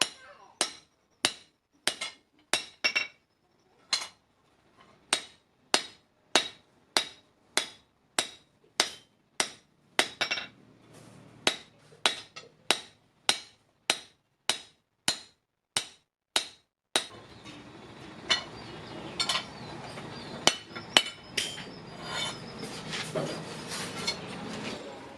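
Blacksmith's hand hammer striking steel, a steady run of ringing metallic blows at about two a second. About two-thirds of the way in, a steady rushing noise starts underneath and the blows continue less evenly.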